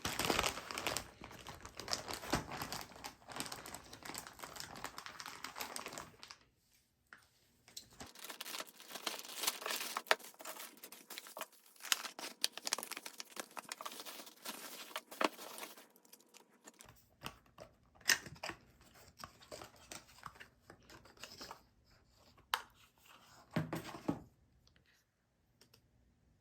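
Packaging being unwrapped: close, irregular crinkling and rustling with some tearing and small clicks, pausing briefly and stopping a couple of seconds before the end.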